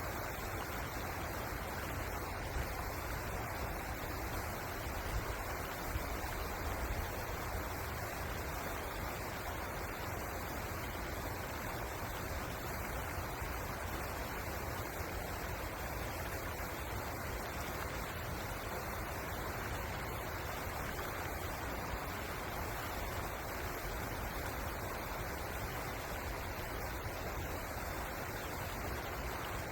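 Pozer River flowing: a steady, even rush of running water.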